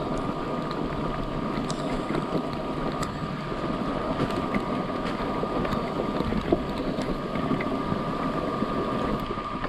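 Yatri P1 electric motorcycle riding over a rough, rocky dirt road: a steady motor whine over tyre and road rumble, with scattered sharp knocks from stones and wind on the microphone.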